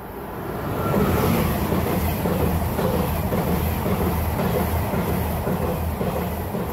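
ICE 1 high-speed train passing at speed. The rush swells about a second in as the power car goes by, then the coaches follow with a steady rumble and a rhythmic clatter of wheels over the rails.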